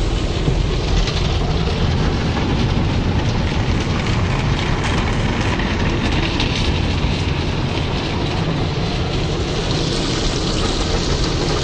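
Automatic car wash machinery, water spray and brushes working on the car, heard from inside the cabin as a steady rushing and rumbling.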